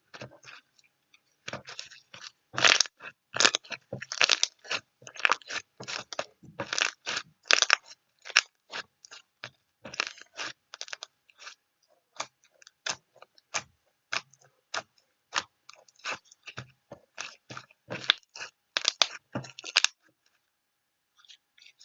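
Repeated irregular crunching, several crunches a second, stopping near the end.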